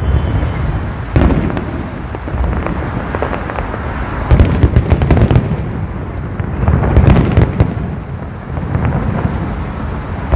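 Fireworks display: a continuous run of booming bursts and crackling, with heavier clusters of bangs about a second in, around four to five seconds in, and around seven seconds in.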